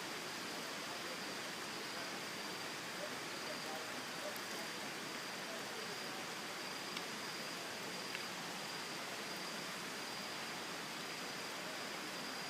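Waterfall rushing: a steady, even roar of falling water, with a faint thin high tone running through it.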